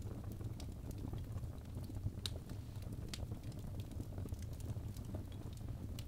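Birch logs burning in a fireplace: a steady low rumble of flame with scattered sharp crackles and pops, one louder pop about two seconds in.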